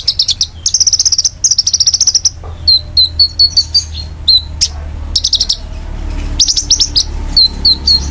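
A songbird singing loudly in high, fast trills broken by runs of sharp, repeated down-slurred chip notes. The chips come about four a second near the end.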